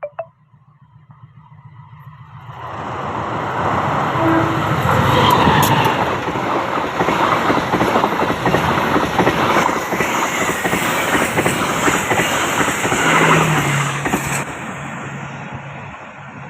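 Train passing close by, its wheels clattering rapidly on the rails. The sound builds over the first few seconds, stays loud for about ten seconds, then fades away near the end.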